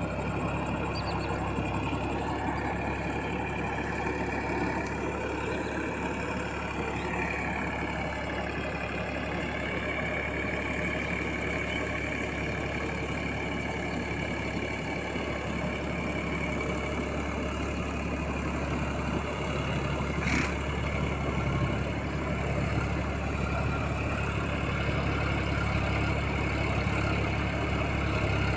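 Massey Ferguson 9000 tractor engine running steadily while puddling a muddy field, a deep drone with a high whine that wavers a little in pitch. There is one sharp click about twenty seconds in.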